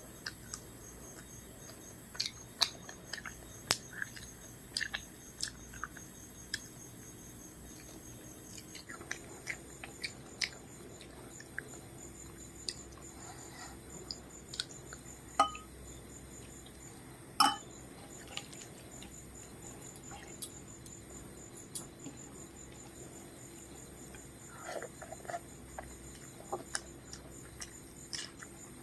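Eating sounds from a meal of rice with fried vegetables and fish: scattered soft clicks and taps of chewing and of food and plate being handled, with two sharper clinks about midway, over a steady high-pitched whine.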